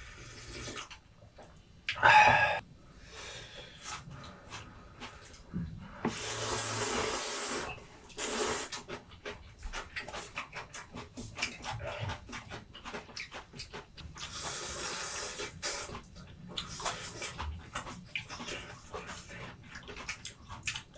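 Stir-frying in a pan: sizzling food with metal utensils clicking and scraping against it, the sizzle swelling into a long hiss a few seconds in and again later.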